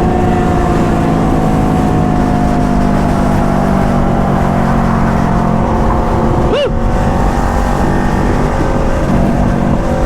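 Sport motorcycle engine running at a steady cruise under heavy wind noise, its note sinking slowly as the bike eases off. About six and a half seconds in comes one quick throttle blip that rises and falls.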